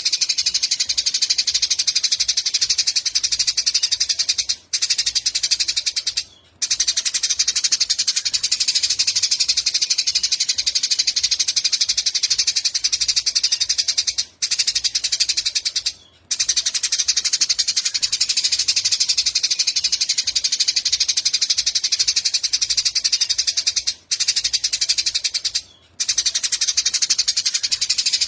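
Eurasian tree sparrows chirping in a dense, rapid, high chatter, with brief breaks about every ten seconds.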